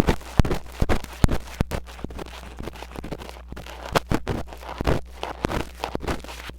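Metal ear pick scraping and scratching against a mini microphone in an ear-cleaning imitation, irregular crackly strokes and sharp clicks over a low steady hum.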